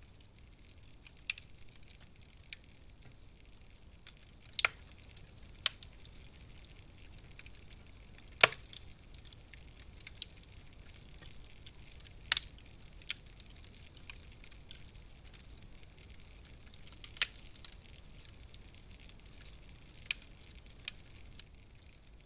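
Wood fire in a fireplace crackling: sharp pops and snaps at irregular intervals, the loudest about eight seconds in, over a faint low hiss of the burning.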